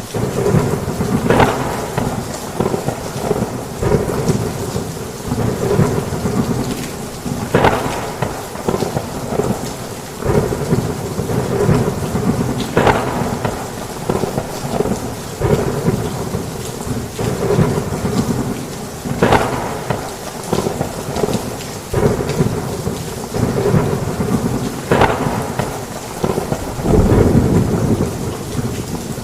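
Heavy rain with thunder rumbling on and on, low and without a break. A sharper crack stands out every five or six seconds.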